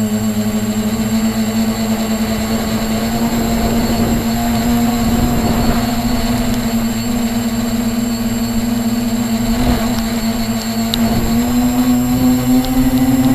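Radio-controlled model helicopter in flight: a steady whirring hum from its rotor and motor, rising a little in pitch near the end, with swells of rushing rotor noise.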